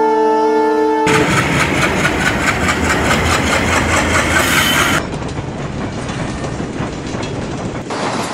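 Train running on the rails with a steady clatter of wheels, after a brief held tone in the first second. It drops in loudness suddenly about five seconds in.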